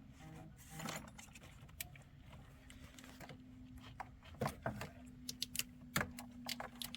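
Scattered light clicks, taps and rattles of small car parts and tools being handled, more frequent in the second half, over a faint steady hum.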